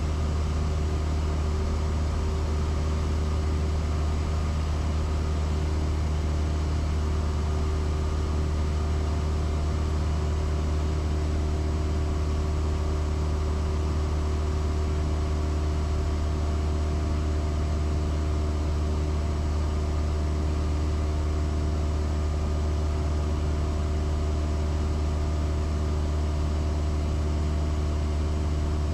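Cessna 172S's four-cylinder Lycoming piston engine and propeller running steadily in flight: a constant low drone with several steady tones above it, with no change in pitch or level.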